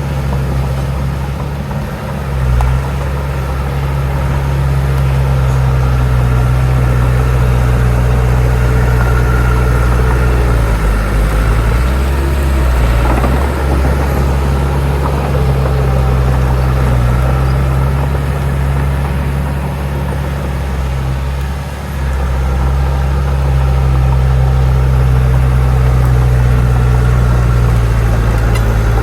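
Heavy diesel engine of earthmoving machinery running steadily under load, with the engine note dipping and shifting a couple of times, around the middle and a little after.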